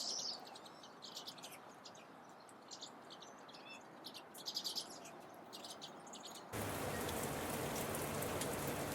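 Small songbirds chirping in short high calls; about two-thirds of the way through, the sound cuts abruptly to a louder, steady patter of falling drops.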